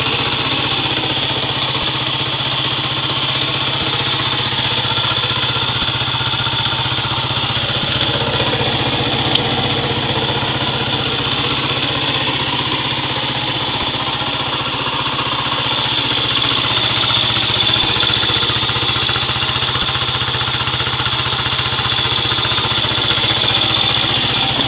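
A 99cc single-cylinder motorcycle engine idling steadily.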